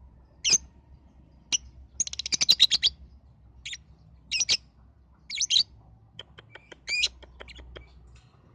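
Lovebird chirping in short, sharp bursts, with a rapid chattering run of about a dozen notes about two seconds in and a string of thin clicky notes later on. It is a lure call used to prompt young lovebirds into singing.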